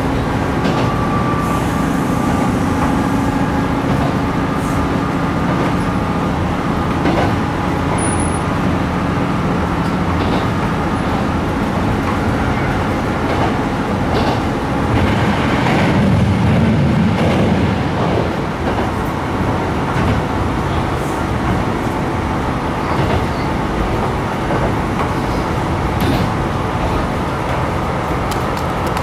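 Diesel railcar running along the line, heard from inside the car: a steady mix of engine and wheel-on-rail noise that swells about halfway through, with scattered faint clicks.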